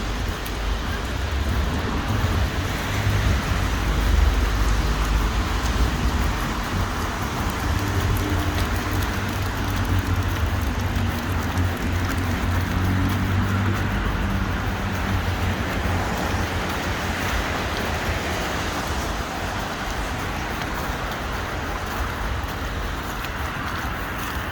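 City street traffic: cars passing with a low engine rumble over steady road noise. The rumble is loudest about four seconds in and eases off in the second half.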